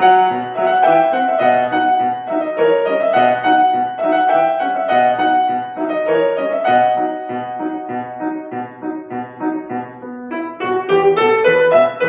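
Acoustic piano playing a classical piece: a sustained melody over evenly repeated accompaniment chords.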